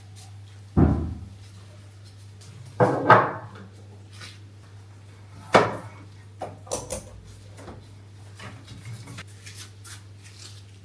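Household items being handled and set down while cleaning: three sharp knocks and clatters about one, three and five and a half seconds in, then a few lighter clicks, over a steady low hum.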